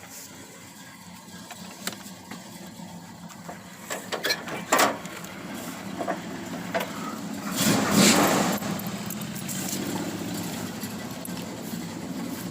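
Car engine being started: a few sharp clicks, then a loud burst as it catches about eight seconds in, after which it keeps running.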